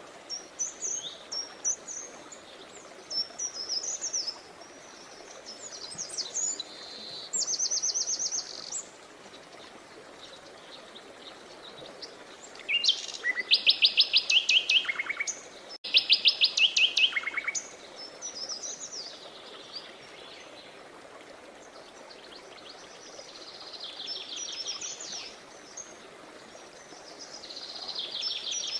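Several songbirds singing and chirping over the steady rush of a running stream. The loudest are fast trilled phrases about halfway through.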